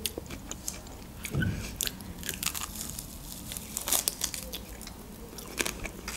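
Close-miked mouth sounds of a person biting grilled shashlik meat off a rib bone and chewing it, heard as irregular small clicks and smacks, loudest about four seconds in.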